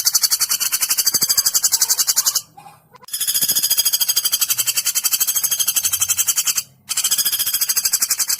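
Small woodpecker (pelatuk) call played as a training recording for songbirds: long, fast, high-pitched rattling trills, about a dozen notes a second. The trills break off briefly about two and a half seconds in and again near seven seconds.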